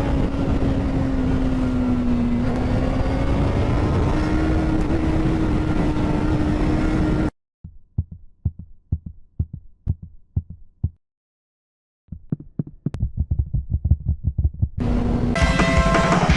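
Motorcycle engine running at a steady pitch under wind rush, cutting off abruptly after about seven seconds. Then comes a run of quick, low, evenly spaced thumps, with a short silence in the middle. An engine and road noise come back near the end.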